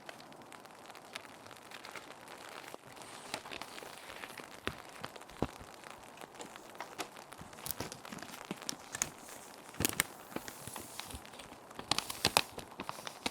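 Plastic sheet protectors crinkling and rustling as paper sheets are slid into them, in irregular crackles with louder bursts about ten seconds and twelve seconds in, over a steady hiss of rain.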